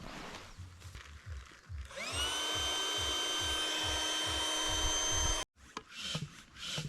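Small electric motor spinning up with a rising whine, then running at a steady pitch for about three seconds before cutting off suddenly.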